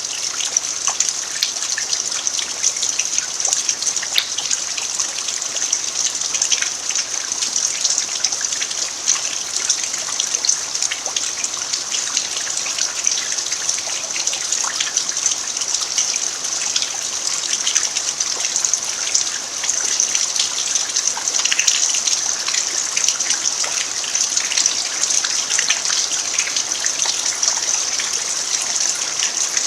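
Steady rain falling on a dirt yard, a constant hiss with many small drop ticks, and water trickling.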